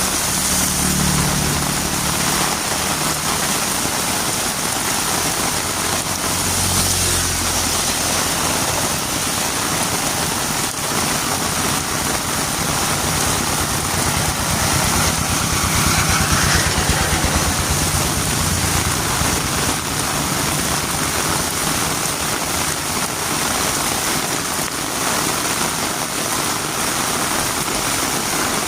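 Heavy rain falling steadily on a road, with a vehicle engine running low underneath for the first several seconds and again around the middle.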